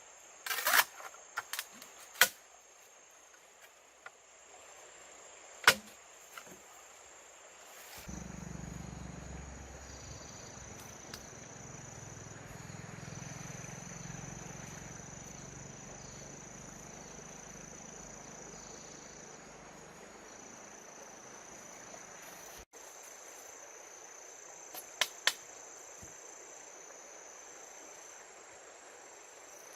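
Crickets chirring steadily in a high, even band. Several sharp knocks sound over it: a quick cluster in the first second, single ones a few seconds in, and a pair near the end.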